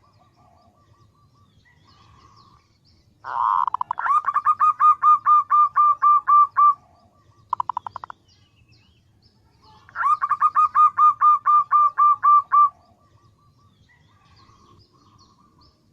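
Female zebra dove calling to attract males: two bouts of quickly repeated cooing notes, about four or five a second, each bout lasting about three seconds, with a short trill between them.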